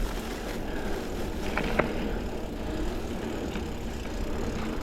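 Mountain bike rolling along a dirt double-track trail: steady tyre and drivetrain rumble, with two light clicks a little under two seconds in.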